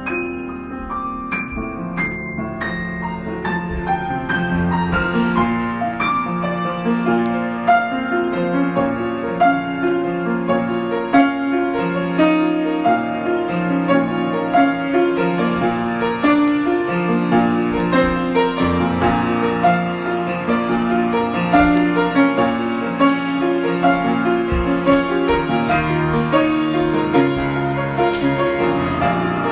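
Solo piano improvisation. It opens with single high notes, then settles into a steady pulse of low chords with a melody above.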